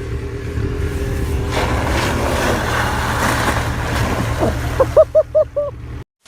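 A vehicle engine running steadily, with a rushing noise building up about a second and a half in. Near the end come four or five short, rising-and-falling pitched calls, and the sound then cuts off suddenly.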